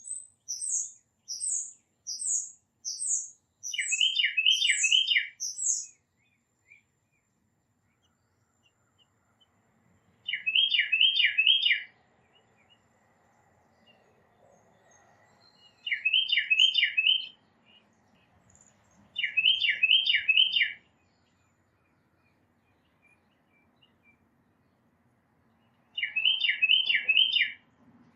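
Backyard songbirds singing. One bird repeats a short phrase of about four quick down-slurred whistles five times, with pauses between. In the first few seconds a second bird adds a run of thin, higher notes.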